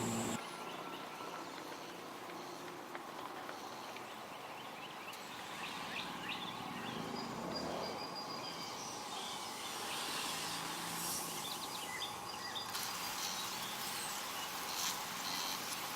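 Faint outdoor background of insects with a few short bird chirps.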